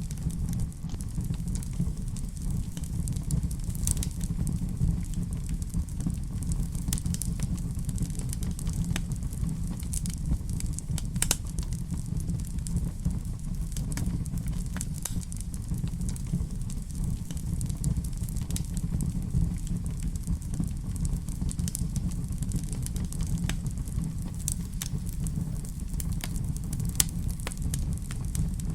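Wood fire crackling in a fireplace: scattered sharp pops and snaps, irregular and frequent, over a steady low rumble.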